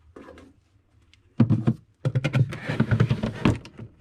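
Food packages and containers being moved around in a refrigerator: a short cluster of knocks about a second and a half in, then a denser run of clattering and knocking.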